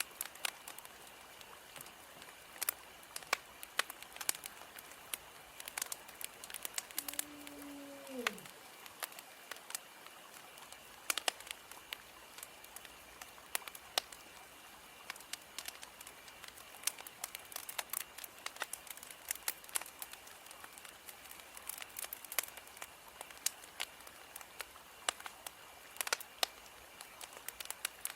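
Wood fire crackling: irregular sharp pops and snaps over a faint steady hiss. About seven seconds in, a short pitched tone slides downward.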